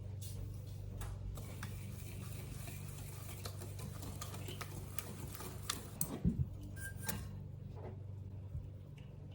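Light clicks and taps of kitchen utensils and dishes, with a few louder knocks about six seconds in, over a steady low hum.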